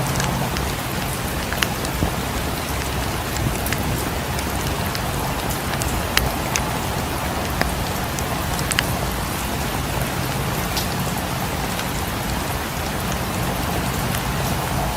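Steady rain falling, an even hiss with a low rumble beneath, and scattered sharp ticks and pops at irregular moments.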